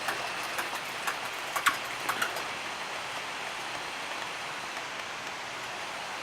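Wood campfire burning: a steady hiss with sharp crackles and pops, several in the first couple of seconds, the loudest just under two seconds in.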